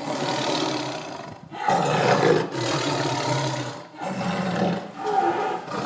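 Dinosaur roar sound effect: several long, rough roars one after another, with short breaks about a second and a half in and again near four seconds.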